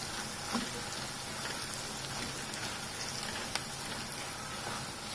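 Stuffed green chillies and their masala frying in hot oil in a wide pan: a steady sizzle, with a couple of faint clicks.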